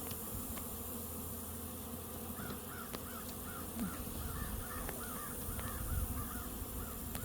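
Honey bees humming steadily around an open hive. From about two seconds in, a bird calls a quick series of short rising-and-falling notes, about three a second, for roughly four seconds.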